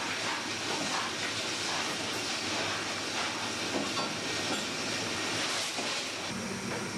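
Steady machine hiss and rumble with faint knocks. About six seconds in, a low hum sets in.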